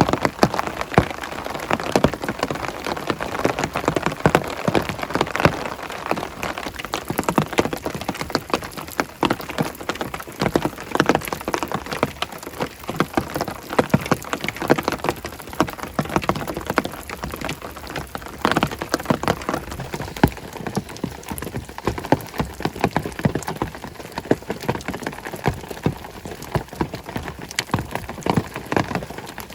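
Heavy rain falling steadily, a dense, irregular stream of individual drops striking close by.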